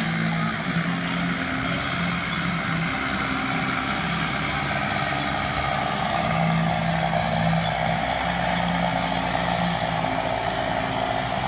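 Tractor-pulling tractor's diesel engine running hard in a steady, continuous drone, as during a pull down the track.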